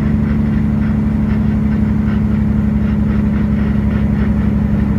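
Semi truck's diesel engine running with a steady low drone as the truck holds about 30 mph down a mountain grade.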